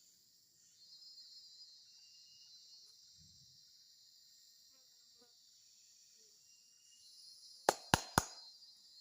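Forest insect chorus droning steadily at a high pitch, with a faint short whistle now and then. Near the end come three sharp knocks in quick succession, the loudest sound.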